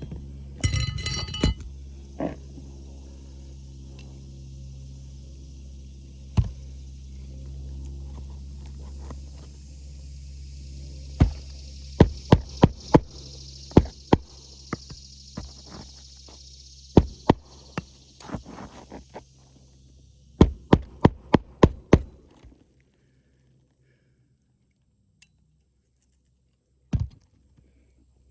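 Sharp hammer blows in irregular runs, ending in a quick run of about six strikes, as nails are driven into asphalt shingles. Under them runs a steady low motor-like hum with a high hiss, which stops about two-thirds of the way through.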